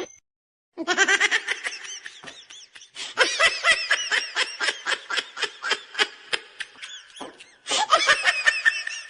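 A person laughing hard in rapid, high-pitched giggles. The laughter starts about a second in and comes in a fast string of short bursts, with two brief pauses for breath.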